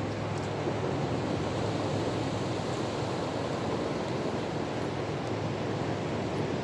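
Steady rush of ocean surf mixed with wind noise.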